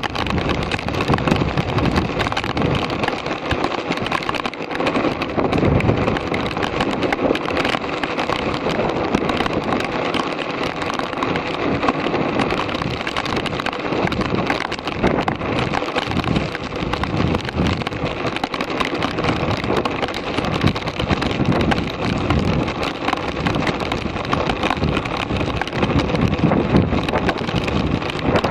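Continuous rushing, splashing noise of water with wind buffeting the microphone.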